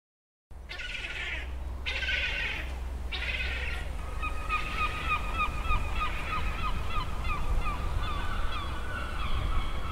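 Honking bird calls: three short harsh squawks, then a quick run of short repeated calls that settles into longer held notes, over a steady low hum.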